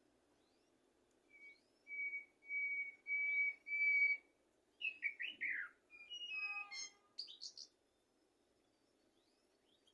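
Common blackbird singing one song phrase. It opens with a run of five clear whistled notes at one pitch, goes on into falling slurred notes and a warble, and ends in a high twitter.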